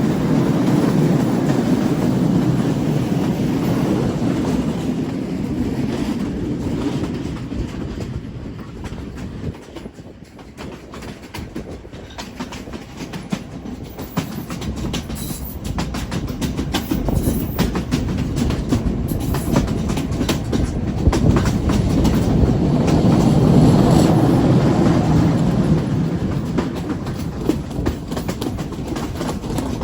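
Passenger train running on the rails: a steady rumble of the carriages with the clickety-clack of wheels over rail joints. The rumble fades about a third of the way through and then builds again, and a run of sharp clacks follows in the middle.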